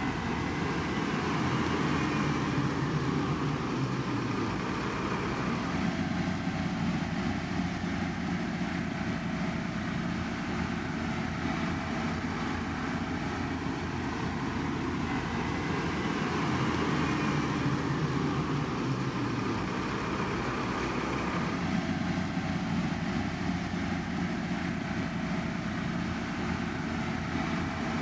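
Heavy road-construction machinery running steadily, a continuous engine and machine noise with no breaks.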